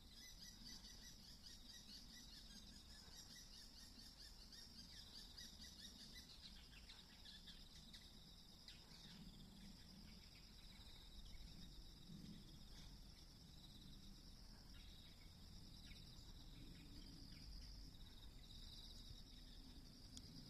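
Faint, steady outdoor chorus of crickets and other insects trilling, with a few short bird chirps about halfway through; the audio runs at 1.5× speed, which raises its pitch.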